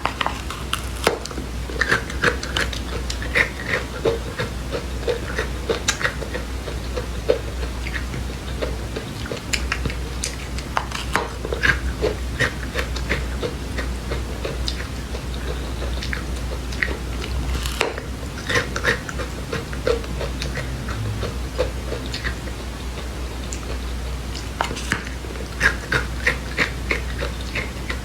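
Close-up crunching and chewing of small dry seeds: many small crisp cracks at an irregular pace over a steady low hum.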